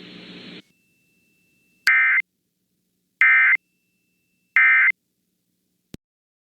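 Emergency Alert System end-of-message data bursts: three short, identical buzzy digital tone bursts about a second and a half apart, signalling that the alert has ended. A faint hiss fades out at the start and a single click sounds near the end.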